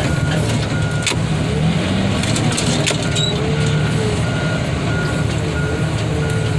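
Heavy loading machine's engine running steadily under work, with a backup alarm sounding repeated short beeps and a sharp knock about a second in.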